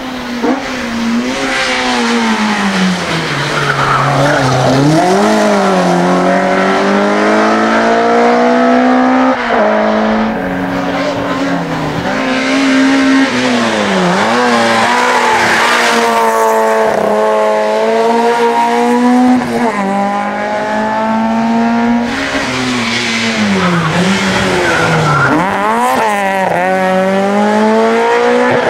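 Race-prepared touring car engine of up to two litres, revved hard and held near the top of its range, its pitch climbing and then dropping sharply at each gear change, over and over.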